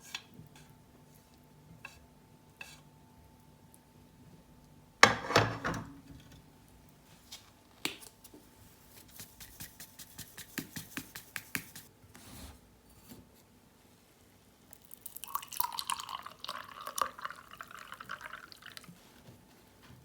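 Kitchen handling sounds: scattered clicks, a loud clatter about five seconds in, a quick run of light taps, then liquid being poured near the end.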